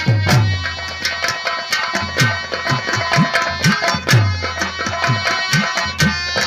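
Nautanki nagma instrumental music: a hand drum plays rhythmic bass strokes whose pitch bends, over a sustained melody instrument.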